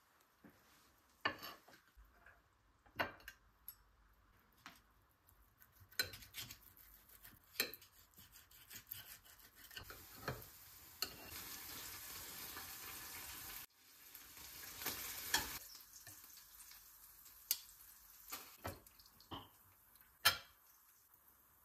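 Home cooking: scattered clicks and taps of utensils against cookware, with a few seconds of steady sizzling hiss in the middle that stops abruptly.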